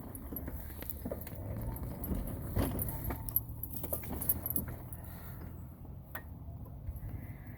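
Light metallic jingling and scattered clicks from small metal objects being moved, over a low steady rumble.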